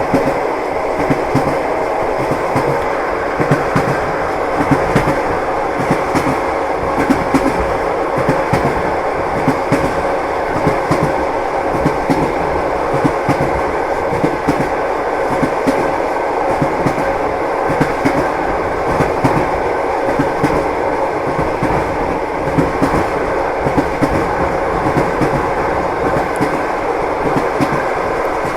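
Train wheels clattering over the rail joints with a steady rumble of the moving railway carriage, short knocks coming again and again over a faint steady hum.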